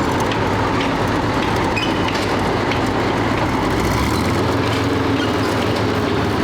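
A slow-moving vehicle running with a steady low rumble and scattered light clicks, as when a heavy load is towed.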